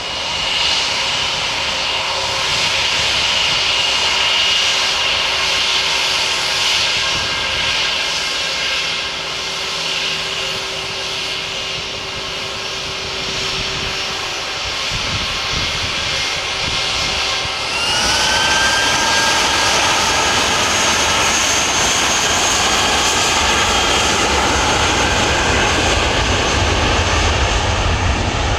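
Jet airliner engines, the Airbus A350's Rolls-Royce Trent XWB turbofans, running with a steady whine. About two-thirds of the way through the whine rises in pitch and the sound gets louder, with a deep rumble building near the end as the engines spool up to more thrust.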